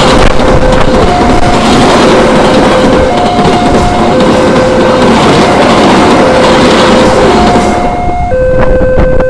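Express passenger train rushing past at high speed, a loud roar of wheels on rail that drops away near the end as the train clears the crossing. Over it the level crossing's electronic warning alarm sounds, alternating between a lower and a higher tone about once a second.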